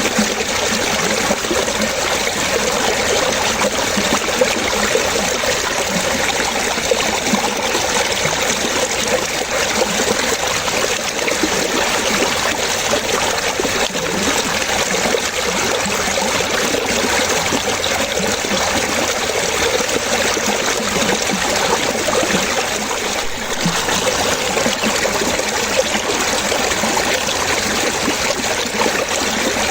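Water trickling and splashing steadily, like a small stream running over stones.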